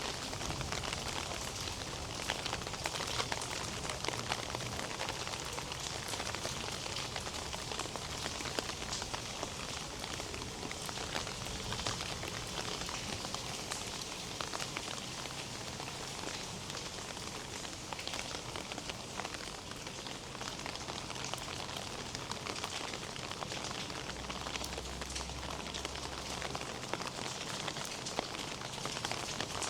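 Steady rain falling, with a dense patter of individual drops hitting nearby surfaces. A faint low hum comes in briefly about three-quarters of the way through.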